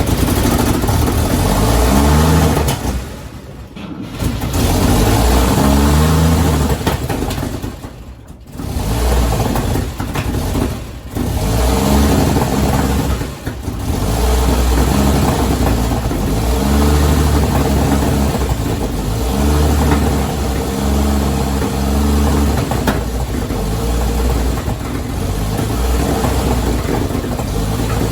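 A 1953 Chevy truck's engine being cranked over by its starter in several long bursts with short breaks, not catching and running: the fuel pump is not picking up fuel from the new tank.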